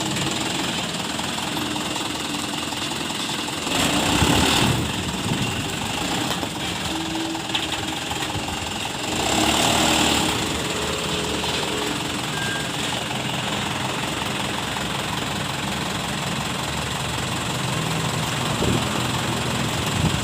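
Dump truck's diesel engine running steadily, with two louder surges about four seconds and nine seconds in.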